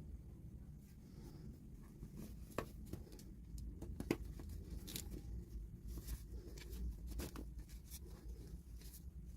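Light, irregular clicks and taps of small plastic toy pieces and packaging being handled, the two sharpest about two and a half and four seconds in, over a low steady hum.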